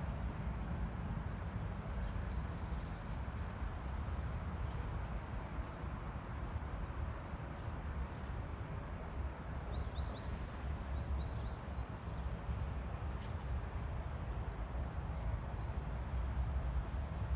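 Outdoor ambience: a steady low rumble, with a few short, high bird chirps in a quick cluster about ten seconds in.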